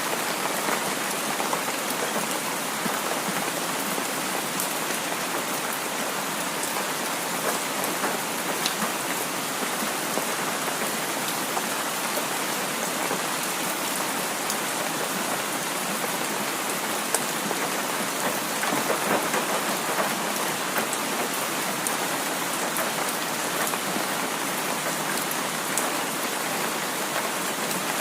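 Heavy rain falling steadily, an even hiss with many small drop ticks, swelling slightly about two-thirds of the way through.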